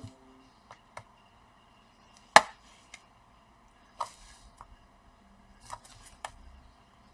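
Scattered sharp clicks and taps of hard plastic being handled and pressed, with one louder knock about two and a half seconds in, as the keyboard is worked into the laptop's upper casing.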